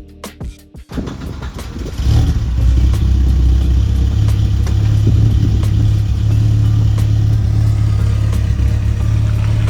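Mercedes-Benz 190E 2.5-16 Evolution II's four-cylinder engine running steadily, loud and low-pitched, coming in about two seconds in.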